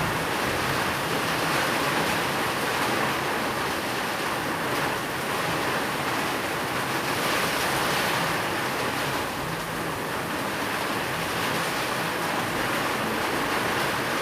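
Steady rain falling, an even hiss with slight swells.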